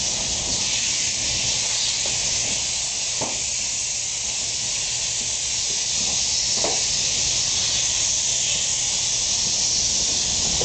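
Air-powered paint spray gun hissing steadily as it sprays epoxy primer onto truck bed strips, stopping right at the end.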